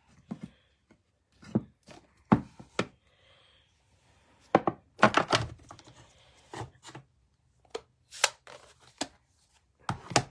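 Irregular knocks, taps and light rustles of stamping and craft supplies being handled and set down on a tabletop, several louder thunks among them.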